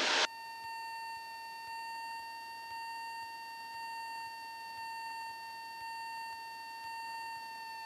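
A steady electronic tone just under 1 kHz with faint higher overtones, its loudness swelling slightly about once a second. It is heard over an otherwise quiet cockpit audio feed.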